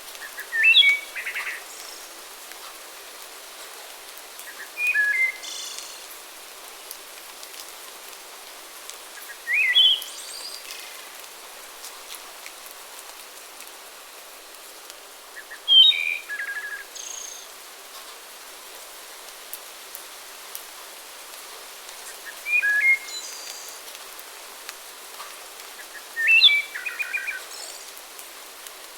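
A songbird repeating a short, clear song phrase about every five seconds, six times in all, each phrase followed by fainter higher notes. A steady hiss lies underneath.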